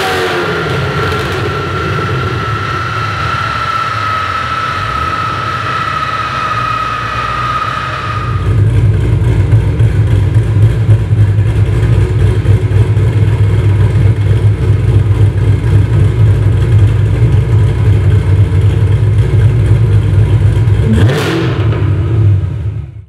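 2018 Yenko Camaro V8 running on a chassis dyno. For the first eight seconds a high whine slowly drops in pitch over the engine. Then a loud, uneven low rumble takes over, a short rev comes near the end, and the sound fades out.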